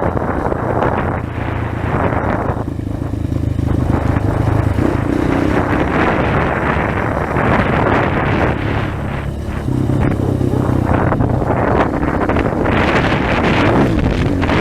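Trail motorcycle's single-cylinder engine running under way, its note rising and easing with the throttle a few times, with wind buffeting the microphone.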